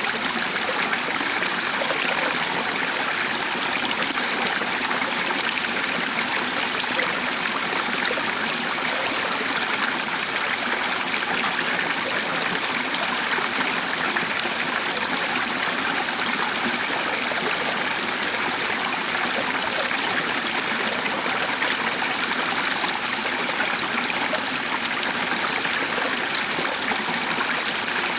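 Stream water running in a steady, even rush that never breaks.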